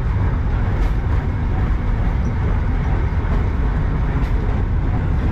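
Darjeeling Himalayan Railway narrow-gauge toy train running along the track: a steady low rumble, with a couple of faint clicks.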